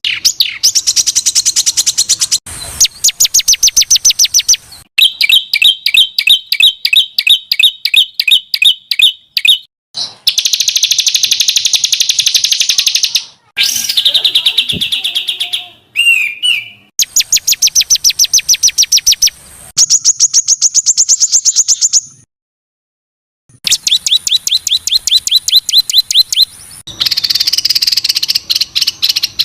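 Edited series of songbird recordings: one run after another of rapidly repeated high, sharp notes, each run changing abruptly to a different song, with a brief silent gap about three quarters of the way in. These are the coarse, fast-fire 'tembakan' phrases used as masteran, recordings played to teach songs to competition birds.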